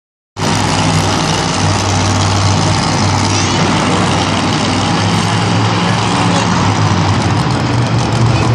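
Monster truck engine running loud and steady with a low drone, over a dense roar of noise.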